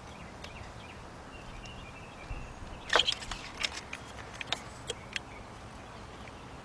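Quiet background with a cluster of light clicks and knocks about halfway through, from a car's ignition coil and its plastic connector being handled and worked loose.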